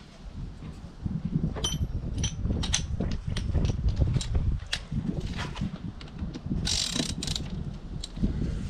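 Socket wrench clicking and metal tools clinking while the press screw of a motorcycle chain riveting tool is wound on. There is one ringing metallic clink about two seconds in and a short scrape near the end.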